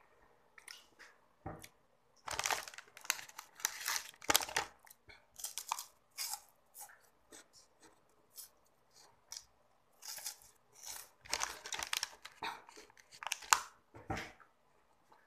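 Close-up crunching and chewing of a crisp wafer, in irregular bursts of crackle.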